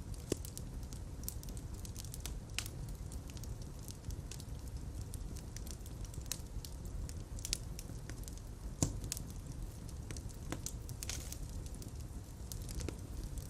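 Fire crackling in a fireplace: a steady low rumble of flames with irregular sharp pops and snaps, the loudest about nine seconds in.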